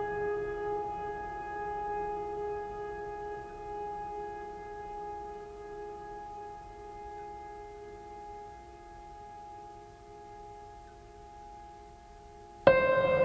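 Background music of long held notes: a sustained chord fades slowly, then a new, louder held note comes in suddenly near the end.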